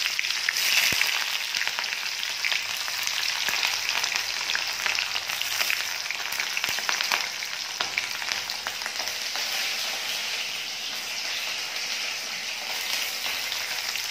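Hot mustard oil with nigella seeds sizzling and crackling in a kadai as sliced onion is dropped in, then green chillies and curry leaves. The sizzle flares up about a second in, when the onion hits the oil, and then keeps up a steady crackle.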